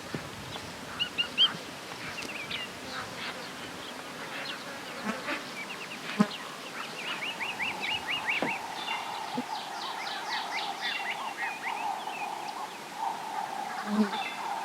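Wild birds calling: scattered chirps and quick trills, with a fast run of repeated notes in the middle. A steady buzzing drone, like insects, comes in just past the middle and carries on.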